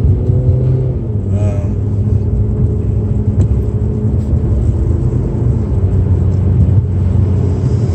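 Car running down the road, heard from inside the cabin: a steady low engine drone mixed with road rumble, its pitch drifting slightly with speed.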